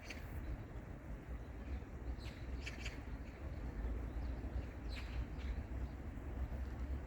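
Birds chirping in short bursts of quick high calls, a few seconds apart, over a steady low rumble.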